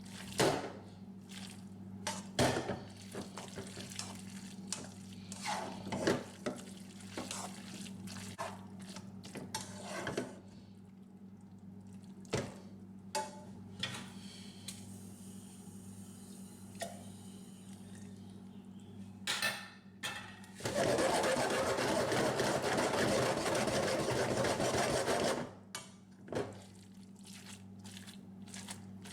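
Kitchen utensils and dishes clinking and knocking at scattered moments, then about five seconds of steady rushing water that cuts off, the loudest part. A steady low hum runs underneath.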